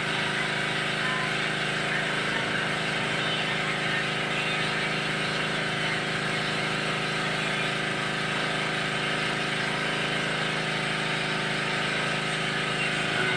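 A steady, unchanging mechanical hum, like a motor or engine running at a constant speed, over an even hiss.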